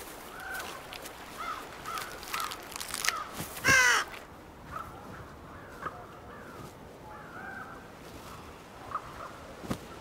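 Bird calls: a run of short chirping calls, with one much louder call falling in pitch about four seconds in.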